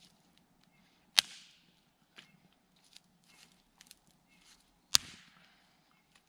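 Two loud, sharp cracks of wood, about four seconds apart, each trailing off in a short crackle, with fainter ticks and clicks between them.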